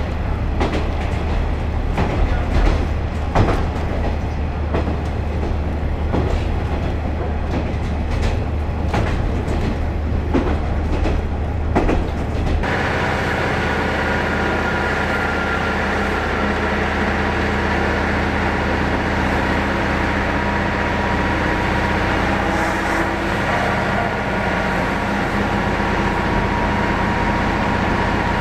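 KiHa 40 series diesel railcar running, heard from inside the carriage: a low engine drone with the wheels clacking over rail joints. About twelve seconds in the sound changes suddenly to a steadier, smoother running noise with a faint whine.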